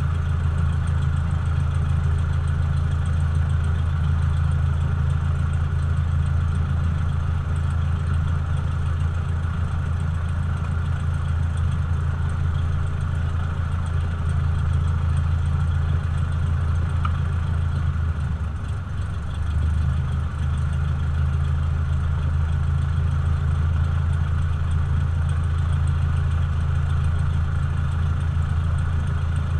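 Cessna 172's piston engine and propeller running steadily, with a brief drop in level about two-thirds of the way through before it settles back.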